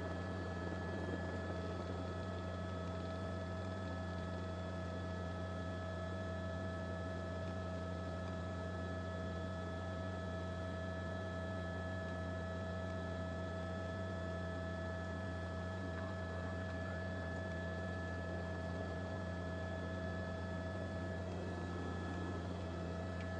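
Steady electrical hum with a few faint constant whining tones over a low hiss, unchanging throughout and with no speech or vehicle sound.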